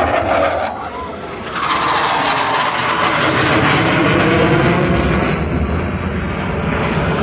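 Jet aircraft flying past, a loud roar that swells about a second and a half in and stays strong.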